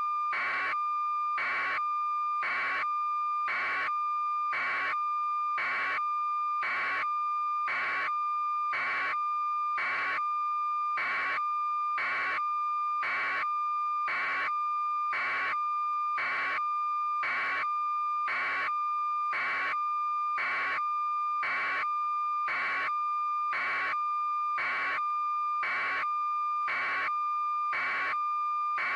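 Electronic alarm-like signal: a steady high beep-tone held without a break, with a short buzzy pulse repeating evenly about one and a half times a second.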